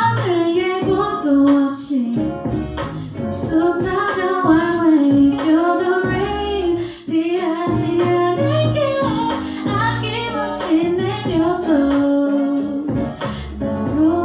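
A woman singing a melody with long held notes over instrumental accompaniment.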